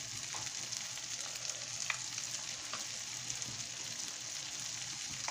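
Egg and tomato curry sizzling steadily in a steel pan, with a few faint pops and crackles.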